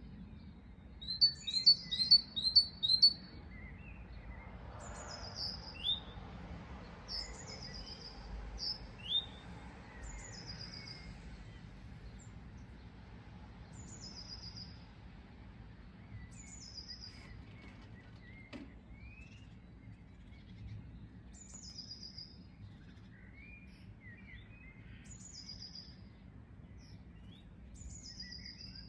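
Birds chirping: a quick run of five loud chirps about a second in, then one bird repeating a short, high, falling phrase about every second and a half, with softer calls in between.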